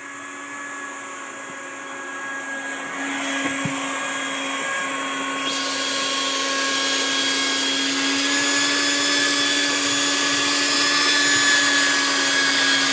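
A small electric motor running with a steady whine that grows gradually louder; a hiss joins it suddenly about five and a half seconds in.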